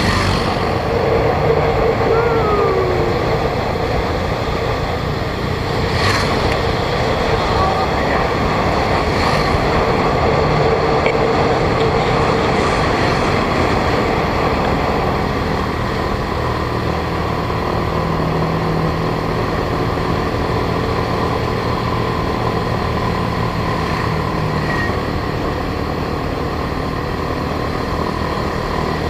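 A motorbike running as it is ridden down a steep hill, its engine heard under a steady rush of wind and road noise.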